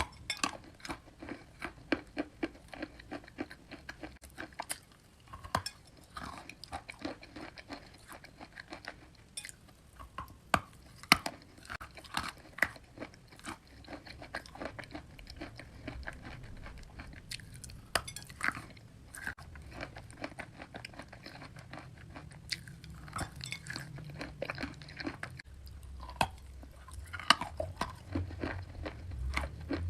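Wet chalk being bitten and chewed, with many sharp, irregular crunches and a low rumble rising near the end.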